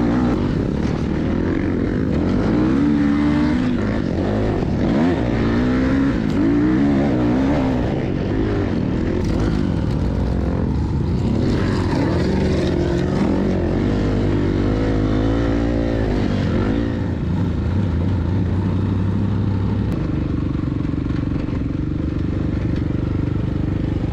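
Off-road vehicle engine revving up and down as it is driven, its pitch rising and falling every second or so, heard loud and steady throughout.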